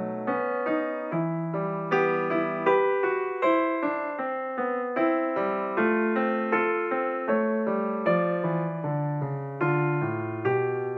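Background piano music: a gentle melody of struck notes, each fading as the next is played.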